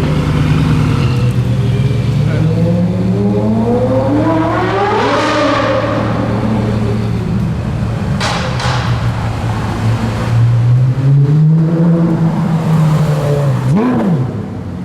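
Porsche Carrera GT's 5.7-litre V10 with a straight-through exhaust, running low, then revving up and back down about five seconds in. The revs rise again later, with a quick sharp throttle blip near the end.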